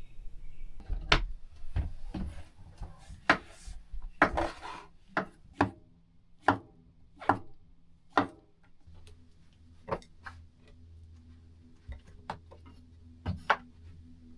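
Knife chopping food on a wooden cutting board: irregular knocks, a stroke every half second to a second, thinning out in the second half.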